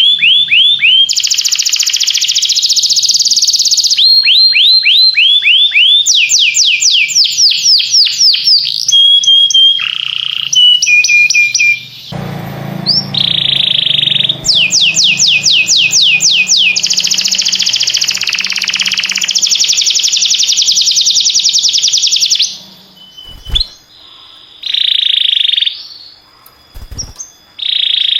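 Domestic canary singing in fast trills, each one a rapid string of the same sweeping note, changing from one trill to the next. The song breaks off briefly about halfway through and comes in shorter bursts near the end.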